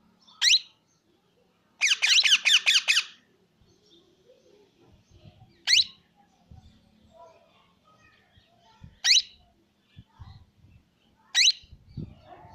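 Plum-headed parakeet calling. It gives a single sharp, high call, then a quick run of about six calls, then three more single calls spaced a few seconds apart.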